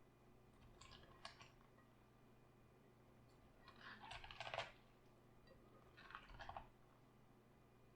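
Raw cabbage crunching in short crisp bursts, the loudest lasting about a second near the middle and a shorter one a couple of seconds later, with faint clicks about a second in.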